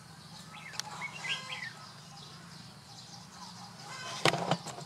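Birds chirping faintly over a steady low background hum, with one short, louder sound a little past four seconds in.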